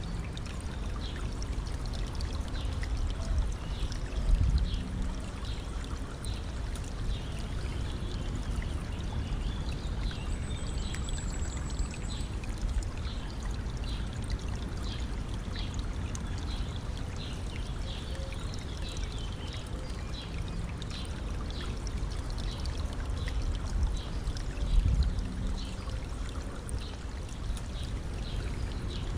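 Stream flowing and trickling over stones: a steady rush of water with many small splashes. The low rumble swells twice, about 4 seconds in and near the end, and one brief high note sounds near the middle.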